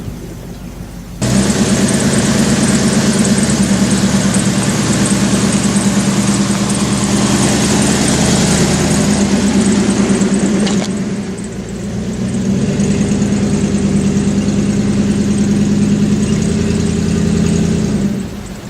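Pickup truck engine running loudly and steadily from about a second in, easing off briefly around eleven seconds in, then picking up again before cutting off near the end.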